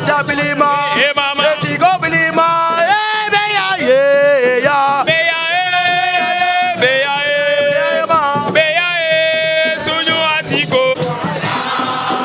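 Wolof song with music, sung by a voice or group of voices in long, held and bending phrases. About eleven seconds in the singing stops, leaving a noisier musical backing.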